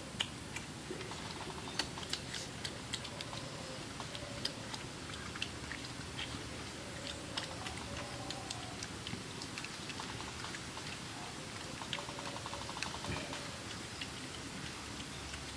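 People chewing and gnawing roasted chicken legs, with many scattered short clicks and smacks of biting, tearing meat and working at the bones.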